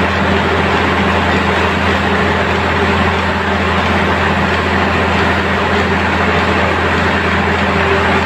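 A ship's engine running: a steady, loud hum over dense mechanical noise, unchanging throughout.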